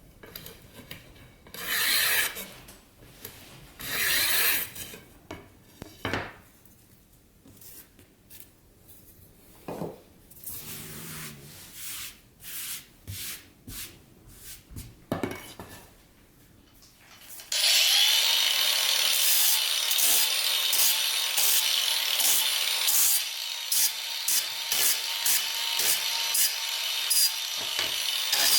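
Irregular rubbing strokes on wood as a table leg is worked by hand, then, about two-thirds of the way through, an electric power tool starts suddenly and runs steadily with a high whine, cutting out briefly several times near the end.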